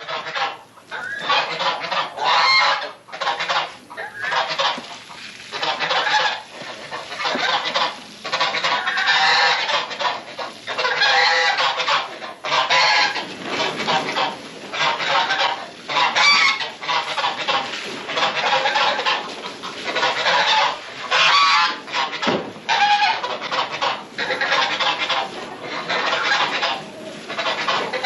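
Domestic geese honking over and over, mixed with other poultry calling, a dense run of calls with hardly a pause.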